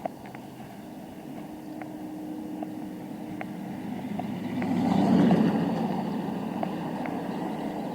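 A motor vehicle approaching and passing close by, its engine and tyre noise swelling to a peak about five seconds in and then easing off, with a few light ticks from the bicycle.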